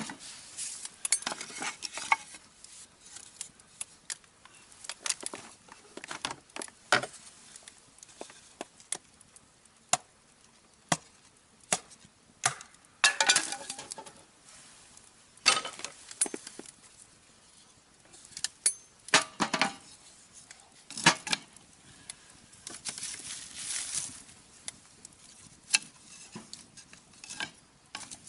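Irregular clicks, knocks and short clatters of objects being handled by hand, with a few louder scraping bursts spread through the stretch.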